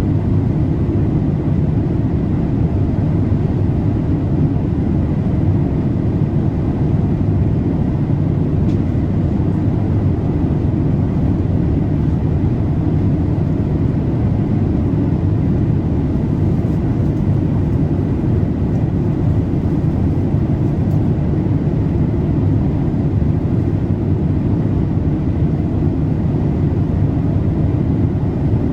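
Steady cabin noise inside a Boeing 787-8 airliner in flight: an even, unchanging low rumble of engine and airflow noise.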